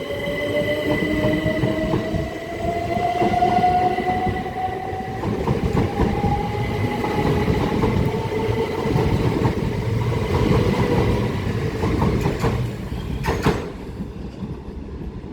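Class 377 Electrostar electric multiple unit accelerating away, its traction motor whine rising steadily in pitch over the rumble of the wheels. Near the end come a few clicks of the wheels over rail joints, and the sound fades.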